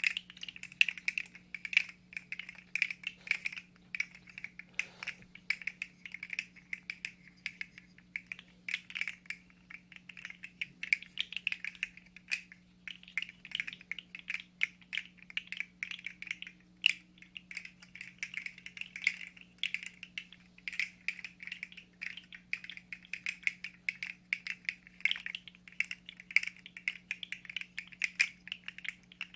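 3D-printed fidget slug toy being handled, its jointed plastic segments clicking and clattering in a fast, irregular stream, with a faint steady hum underneath.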